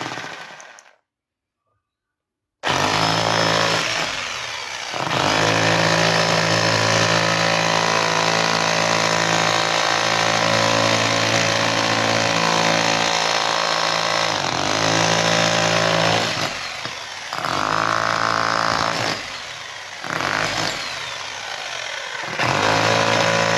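APT Crown 1020 rotary hammer drill running with its hammer action, which has just been repaired and is working again. After a short silence it starts about two and a half seconds in and runs in several long bursts, easing off briefly a few times.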